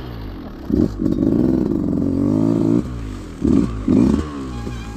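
Off-road motorcycle engine revving in several bursts of throttle, its pitch rising and falling between them.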